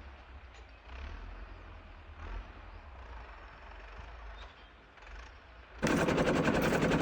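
Faint outdoor background with a low rumble, then about six seconds in a compact tractor's engine cuts in loud and close, a fast, even pulsing.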